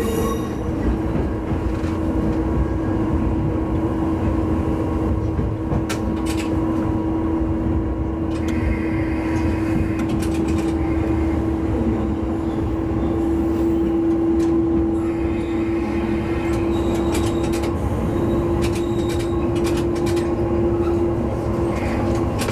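Diesel railcar running on the line, with low rumble and a steady whine from the drive that grows a little louder around the middle, and short clicks from the wheels over the track.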